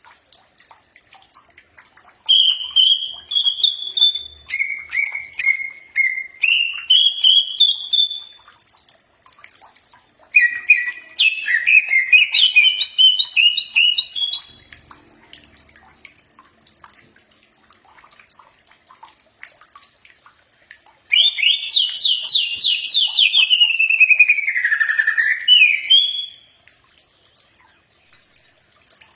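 Cucak ijo (green leafbird) singing in three phrases of rapid, loud whistled notes that slide up and down in pitch, with pauses of a few seconds between them.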